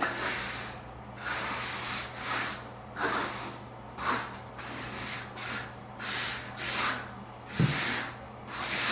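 A hand float scraping over dry-pack shower pan mortar in repeated strokes, roughly one a second, as the mud is packed and smoothed. There is one low knock late on, over a faint steady hum.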